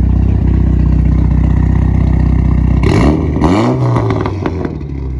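Car engine idling, then revved hard about three seconds in, the pitch sweeping up and falling back to idle before the end.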